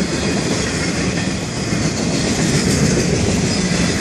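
Florida East Coast freight train's cars rolling past close by: steel wheels rumbling and clattering on the rails in a steady din.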